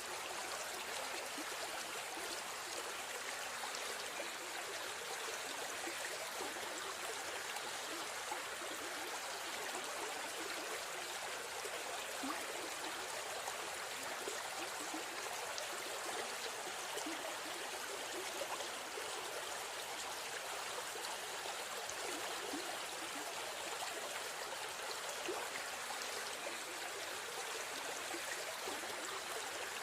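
River stream running steadily: an even rush of flowing water, flecked with small splashes and trickles.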